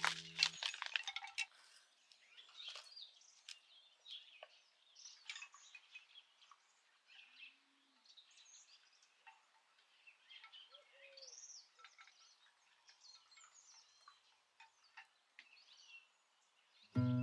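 Faint birdsong: scattered short chirps and whistled notes from several birds, with a few light clinks in the first second or so.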